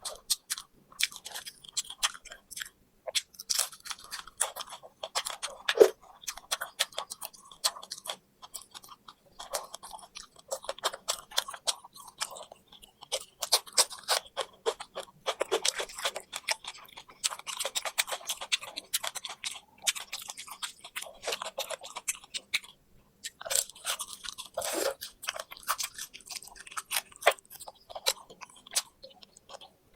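Close-miked chewing and crunching of deep-fried poultry, with many irregular crisp crackles.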